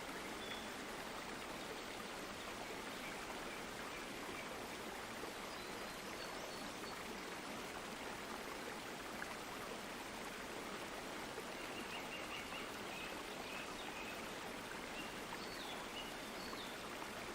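Water in a stream flowing steadily, an even rushing that never lets up, with a few faint high chirps now and then.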